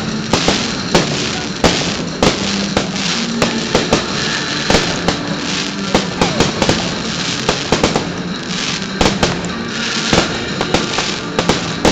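Fireworks display: many sharp bangs and a dense crackle of bursting shells, with music playing along underneath.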